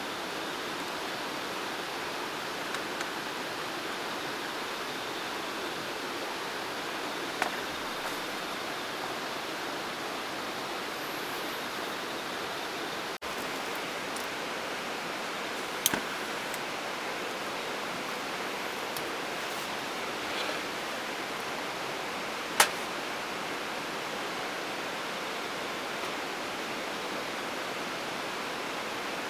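Steady rushing of water, with a few sharp clicks, the loudest about three quarters of the way through.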